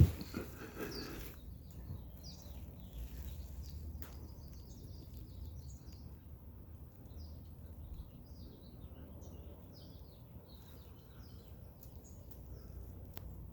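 Small birds chirping again and again over a steady low rumble, with a brief rustling noise at the very start.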